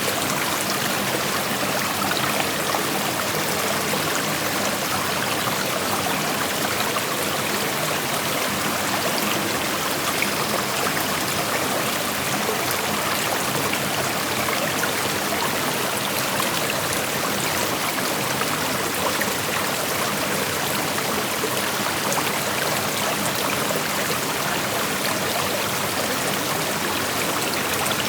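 Creek water flowing and rushing over rocks: a steady, even wash of water sound with fine trickling detail.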